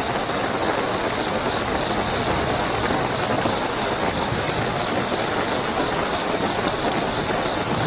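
Heavy, steady rainfall, with crickets keeping up a continuous high-pitched trill above it.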